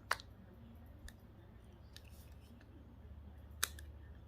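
Tools working at a small plastic electronics casing while it is being pried apart. There are faint ticks and two sharp clicks or snaps, one just after the start and one near the end.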